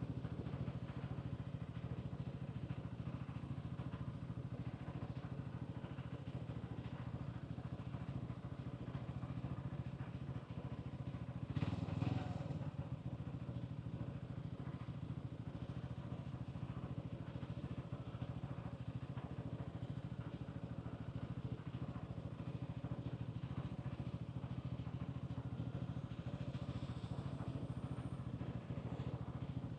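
Hansom Bike Benet 125cc motorcycle engine running steadily with street ambience, with a brief louder burst of noise about twelve seconds in.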